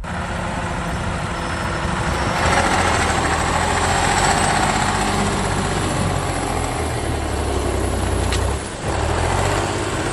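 Tractor engine running steadily, getting louder about two and a half seconds in, with a brief dip near the end.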